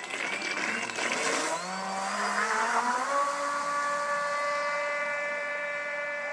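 Radio-controlled model boat's motor whining, rising in pitch as it speeds up about two to three seconds in, then holding a steady high-pitched whine.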